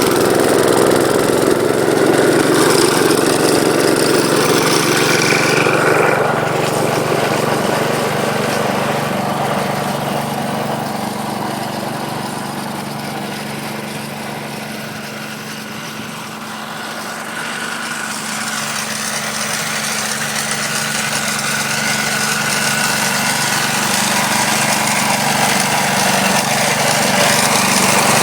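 The 12-horsepower Kohler engine of a 1972 Gravely Commercial 12 walk-behind tractor running steadily with its snow blower. The level falls off toward the middle and builds up again near the end.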